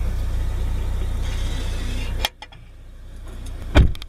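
Car engine idling, a steady low hum heard inside the cabin. It cuts off abruptly about two seconds in and is followed by a quieter rising hiss and one loud thump near the end.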